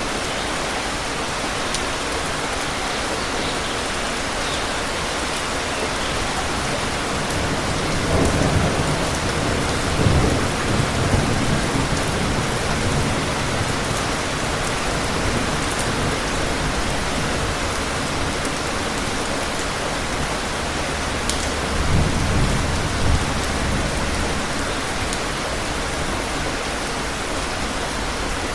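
Steady rain with low rumbles of thunder: one about eight seconds in, a longer one around ten to twelve seconds, and another around twenty-two seconds.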